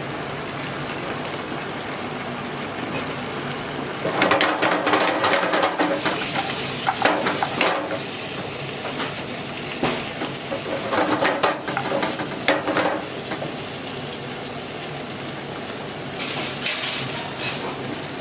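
Coq au vin sauce bubbling in a pan on the stove, with a spoon stirring and scraping in the pan in three spells, the first and longest about four seconds in.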